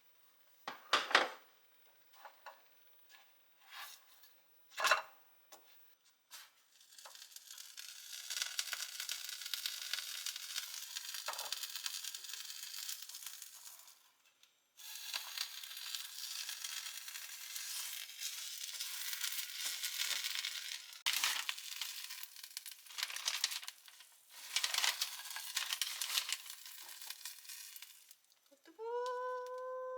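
Food sizzling in a frying pan in a long steady hiss, after a few light clinks of utensils at the start. A short electronic beep sounds near the end.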